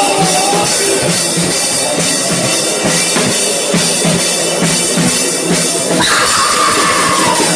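Rock band playing live at rehearsal, with the drum kit to the fore and an even beat of kick and snare. A held note slides slightly down near the end.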